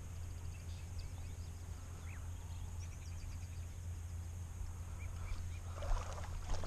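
River ambience: a steady low rumble of moving water and wind on the microphone, with faint high chirps scattered through and a few louder splashes near the end.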